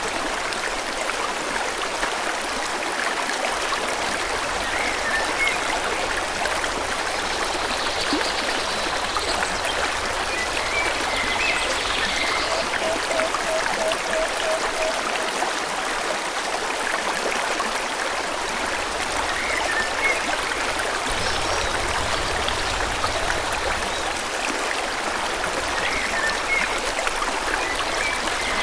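Forest river flowing steadily, an even rushing of water, with a few short bird chirps now and then and a brief run of quick repeated low notes about halfway through.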